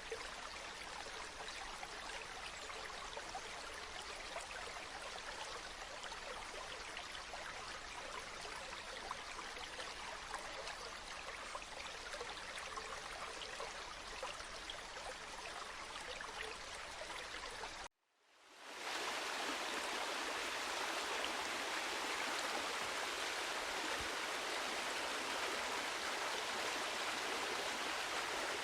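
Steady flowing water of a stream. About two-thirds through it cuts out for a moment, and a louder, brighter rush of flowing water fades in and holds.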